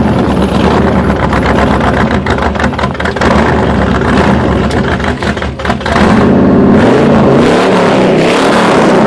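Chevy S10 mud truck's engine running under way. It eases off about five and a half seconds in, then revs up again with a rising pitch.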